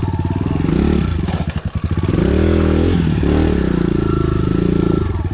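Enduro dirt bike's engine running under changing throttle, revving and easing off. It drops to a low, pulsing putter about a second and a half in, then picks up again.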